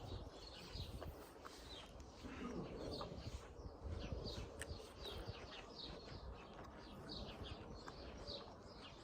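Small birds chirping faintly and repeatedly, short high calls one after another, over a low wind rumble on the microphone.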